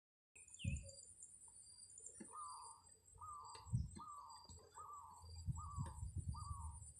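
A bird calling outdoors, a short, slightly falling note repeated about every second, over a thin high steady whine, with low rumbles and thumps from wind or handling on the microphone.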